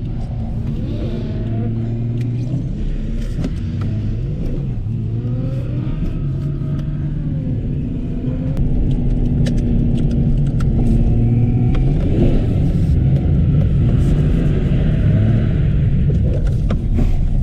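Drift car's engine running hard, its pitch rising and falling as the throttle is worked, over a steady low rumble; it gets louder about halfway through.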